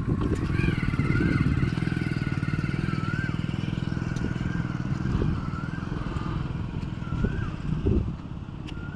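A motor vehicle's engine running steadily, a fast-pulsing low rumble with a faint wavering whine above it, easing off somewhat near the end.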